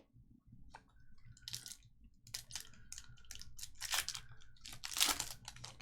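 Topps Merlin Chrome trading cards being handled: a run of irregular scrapes and rustles as the cards are slid and flipped through, loudest about four and five seconds in.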